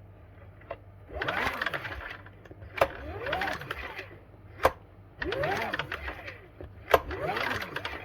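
Champion 8200i dual-fuel generator's recoil starter pulled four times, each pull a whirring rise and fall in pitch, with sharp clicks between pulls. The engine turns over but never fires: by the owner's account it is flooded with LPG.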